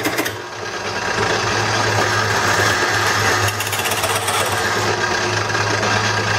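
Craftsman wood lathe running with a steady motor hum while a hand-held turning tool cuts into the spinning bowl blank, giving a rapid chattering, scraping noise. The turner doesn't know if the noise is normal and puts it down to the metal tool against wet wood, perhaps when using her skew.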